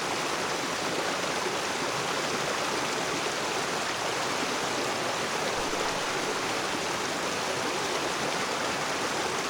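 Rocky river water rushing steadily over stones: an even, unbroken wash of flowing water.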